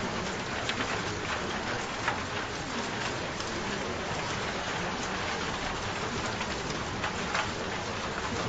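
Steady rain falling, with many individual drops ticking on a surface over a continuous hiss.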